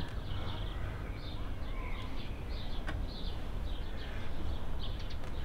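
Small birds chirping and twittering in short repeated calls over a steady low outdoor rumble, with a single faint click about three seconds in.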